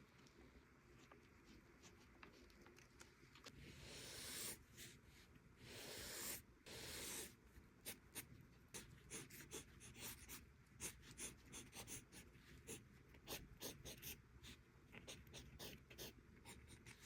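Mechanical pencil sketching on paper, faint: a couple of longer scratchy strokes, then quick short strokes one after another from about halfway through.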